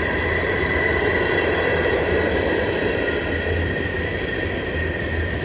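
Freight train cars rolling past: a steady rumble of wheels on rail with a thin, steady high whine over it.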